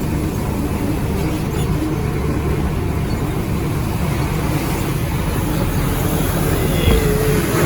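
Heavy diesel dump truck engine running, a steady low rumble.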